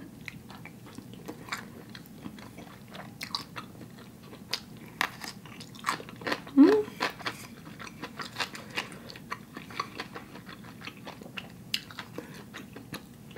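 Close-miked chewing of spicy instant noodles, with many small sharp clicks. About halfway through comes one short rising hum from the eater.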